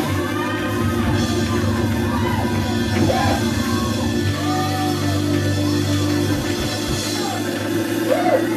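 Church praise music with held chords, and voices shouting and singing over it.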